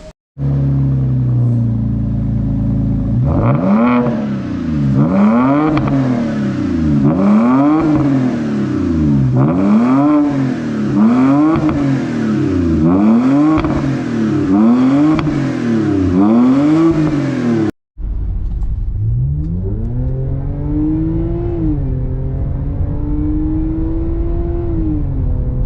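BMW F10 non-turbo engine through a full stainless-steel aftermarket exhaust with 4-inch carbon tips, idling and then blipped about ten times in quick succession, roughly one rev every second and a half. After a short break it idles again, then revs rise more slowly, are held for a few seconds and fall back near the end.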